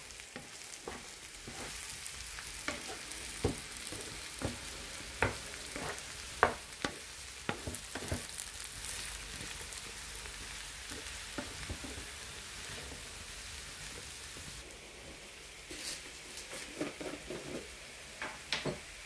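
Chopped mushrooms and onions sizzling in a hot pan while being stirred, the utensil scraping and knocking against the pan in a run of sharp clicks. The clicks are thickest in the first half and pick up again near the end.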